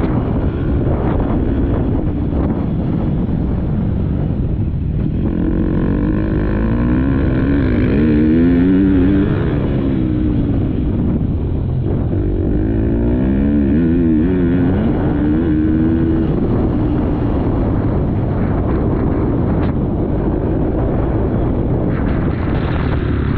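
Motocross bike engine running hard during a race, its pitch climbing and dropping again and again as the throttle is opened and rolled off through corners and gear changes.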